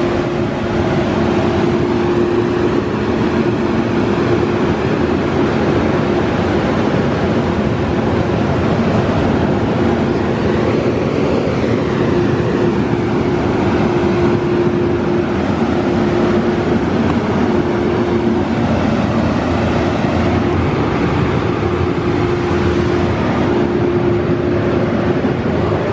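In-bay automatic car wash running over a car: a steady loud rush with a steady hum underneath that drops out briefly now and then.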